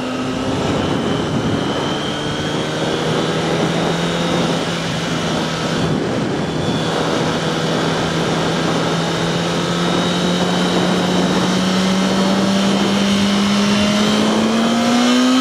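Yamaha R1's inline-four engine running under way. About half a second in the revs drop sharply, as on an upshift, then hold steady and slowly climb, over wind and road noise.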